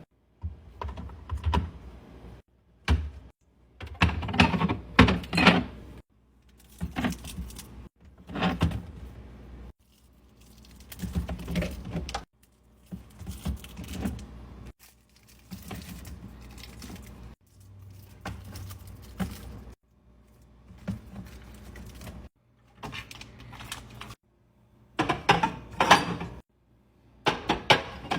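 Household items being handled: clicking, knocking and rattling of containers and packaging being picked up and set down, in a run of short clips cut together every two to three seconds.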